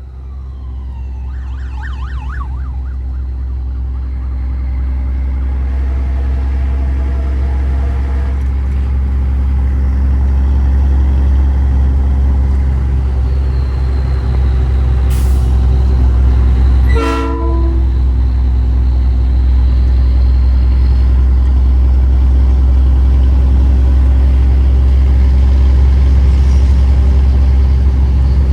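Heavy truck in a convoy, a deep steady engine rumble with several steady horn tones sounding over it. It swells over the first ten seconds or so and dips briefly about two-thirds of the way through.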